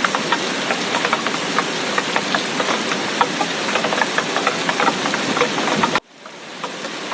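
Heavy tropical storm rain, a dense steady hiss studded with many separate close drops striking a surface. About six seconds in it cuts out abruptly and fades back in.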